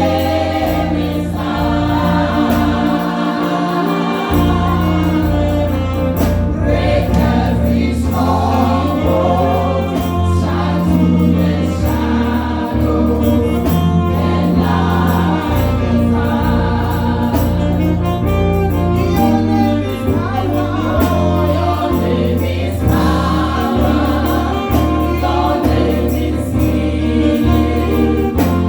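Live gospel praise music: a choir singing over a band with a strong bass line.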